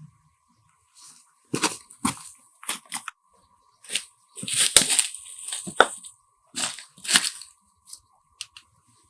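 A series of sharp crunching and tearing sounds, about ten in all, with a longer tearing stretch about halfway through.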